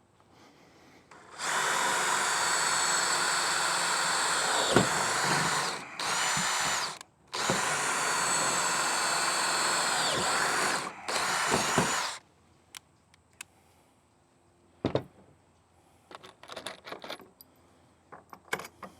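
Power drill boring a 5/16-inch hole through an aluminum crossbar, running in four bursts with short pauses between them and stopping about twelve seconds in. After that come a few faint clicks and knocks.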